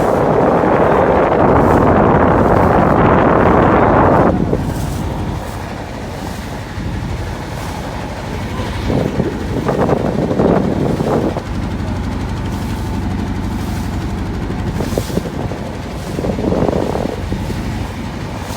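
A steady low engine rumble while travelling, with wind buffeting the microphone. The wind noise is loudest for the first four seconds, then dies down, with a few shorter gusts later.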